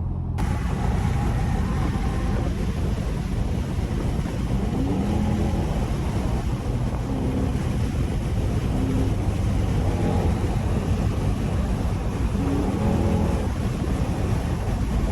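Straight-piped Dodge Durango exhaust under way on the highway, its pitch rising and falling several times as the throttle changes, over a steady rush of wind and road noise.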